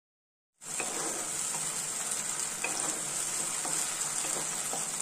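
Chopped onion and capsicum sizzling in oil with ketchup and soy sauce in a non-stick kadai, stirred with a wooden spatula, with a few light spatula taps on the pan. The sizzle starts abruptly about half a second in.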